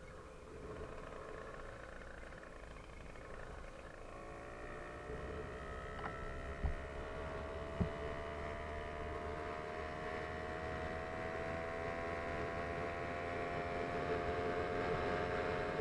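Small engine of a motorized bicycle running, its pitch climbing slowly and its sound growing louder from about four seconds in. Two short thumps come about halfway through.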